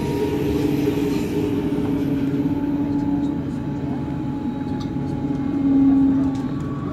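Berlin S-Bahn electric train running, heard from inside the carriage: a steady rumble of wheels on rails under a constant motor hum, swelling louder briefly near the end.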